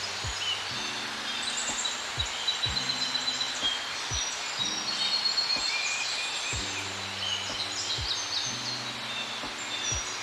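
Forest ambience: many small birds chirping and trilling together over a steady outdoor hiss, with a faint low hum coming and going.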